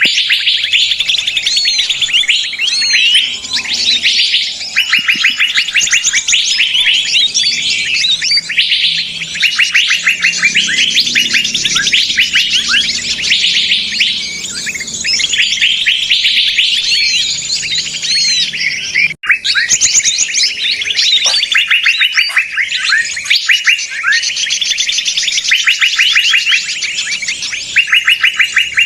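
Bird-lure recording of a noisy flock: many small birds chirping and trilling rapidly at once in a dense, loud chatter, used to draw wild birds in. The sound drops out for a split second about two-thirds of the way through.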